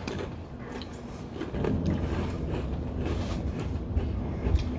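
Soy-flavoured rice crackers being chewed, with a few short crunches, over a low rumble that comes up about a second and a half in.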